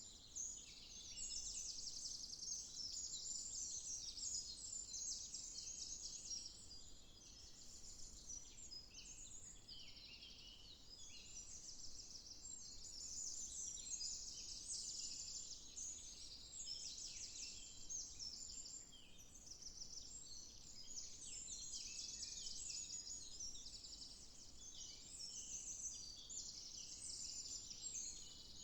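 Many songbirds singing and chirping at once, a dense, unbroken chatter of high, quick notes and trills.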